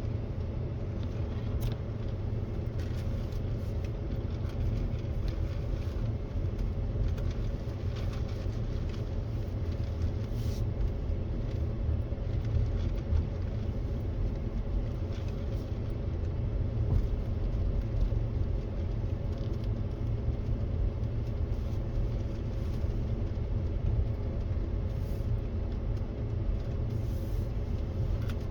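Flatbed truck driving on a dirt ranch road: steady engine note under a low road and tyre rumble, with a few faint rattles.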